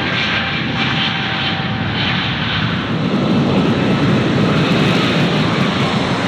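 Jet airliner's engines, a loud steady roar that grows a little louder and lower midway as the aircraft passes.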